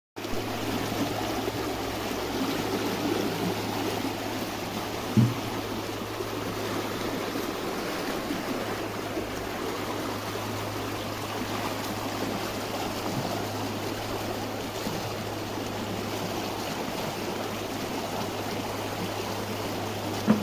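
Small stream running, a steady rushing and trickling of water, with a brief low thump about five seconds in and another near the end.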